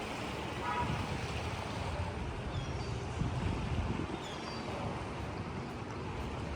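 Wind and heavy rain making a steady rushing noise, with low gusts buffeting the microphone. A few short, high chirps falling in pitch come through about two and a half and four seconds in.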